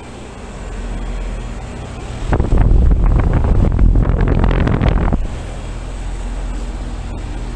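Outdoor heat pump units, a 1995 Carrier and a 2019 Lennox, running with a steady hum of compressor and condenser fan. From about two seconds in until about five seconds, loud wind buffeting rumbles on the microphone, then the steady hum carries on.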